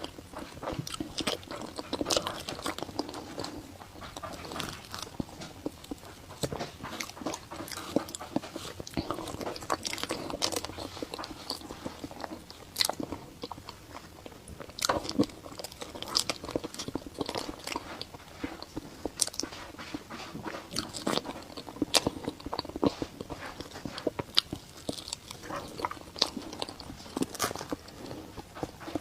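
A person chewing and biting food, with many small irregular wet mouth clicks and smacks.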